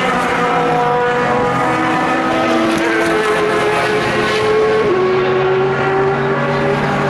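Several endurance race cars' engines running at once on track, overlapping. Their pitches climb slowly, and one steps down sharply about two-thirds of the way through, as at an upshift.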